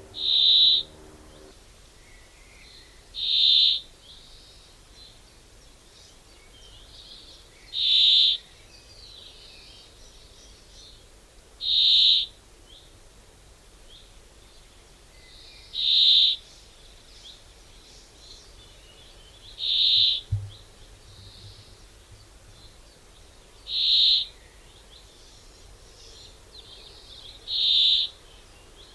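A bird's single high whistled note, repeated eight times at about four-second intervals over faint background noise. A brief low thud comes about two-thirds of the way through.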